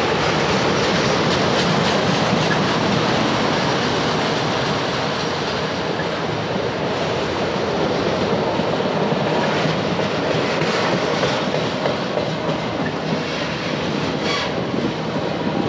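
Freight train of enclosed autorack cars rolling steadily past at trackside: continuous noise of steel wheels running over the rails.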